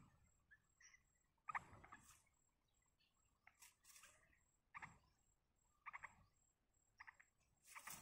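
Several short bursts of quick, soft chirps from birds at a yellow-vented bulbul's nest, each burst a rapid run of a few notes.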